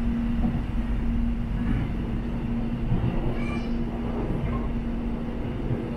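Airport rail link electric train running along the track: a steady low rumble of wheels on rail with a constant hum.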